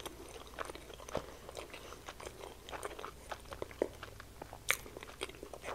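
Close-miked chewing of a mouthful of fried chicken sandwich with golden barbecue sauce: soft, wet mouth smacks and small clicks at an uneven pace, one a bit louder near the end.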